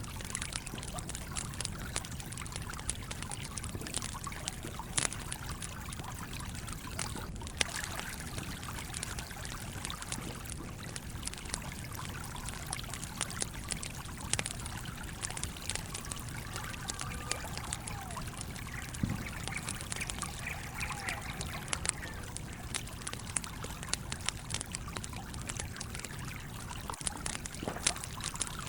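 Campfire crackling with sharp, irregular pops over the steady trickle of a small stream.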